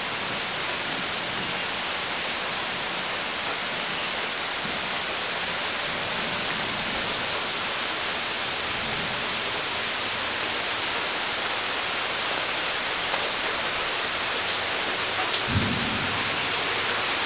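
Steady rain hissing, growing slightly heavier, during a thunderstorm, with a brief low thump near the end.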